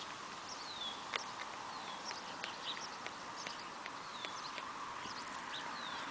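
Small birds chirping: repeated short falling whistles and sharp chips, several a second, over a steady background hiss.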